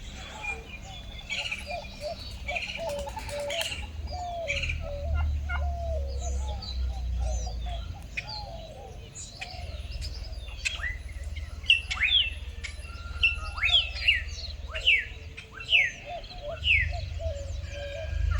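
Turkeys calling: lower wavering calls throughout, joined in the second half by many short, sharp, falling high chirps. A low rumble comes and goes beneath.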